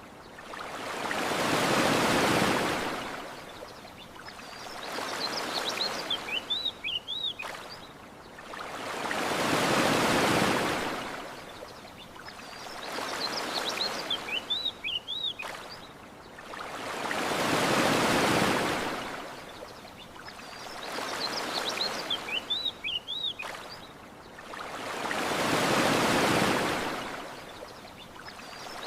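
Ocean waves washing onto a shore, swelling and ebbing about every four seconds, alternately stronger and weaker. A short run of high bird chirps comes in between the swells about every eight seconds, the same pattern each time.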